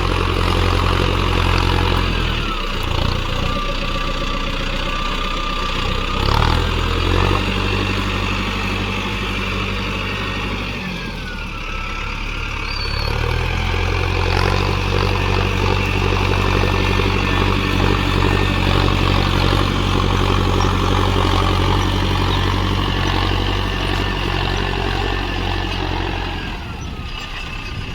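Tractor diesel engine running steadily, its note dipping and recovering briefly a few times.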